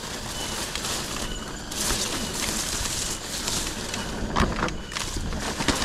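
Mountain bike riding down a dirt trail: wind buffeting the microphone and tyre rumble, with a few sharp rattling knocks from the bike over bumps, two of them near the end.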